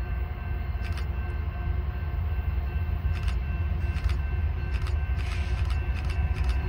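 Diesel locomotive at the head of a freight train approaching, a low rumble growing gradually louder, with a few sharp clicks scattered through it.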